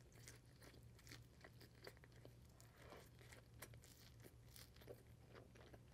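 Faint wet chewing and mouth clicks of someone eating a mouthful of gravy-covered poutine fries, over a low steady hum.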